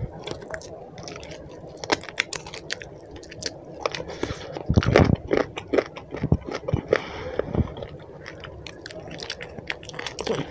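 Close-miked chewing of roti and chicken curry eaten by hand, with irregular mouth clicks throughout and a louder stretch about halfway through.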